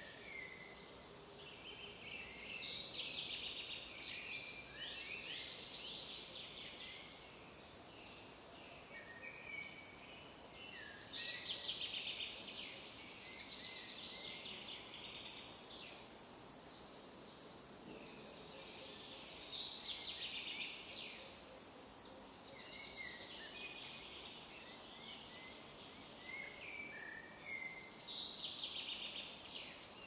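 Songbirds singing: a trilled song phrase of two to three seconds comes about every eight seconds, with short chirps between, over a steady outdoor hiss.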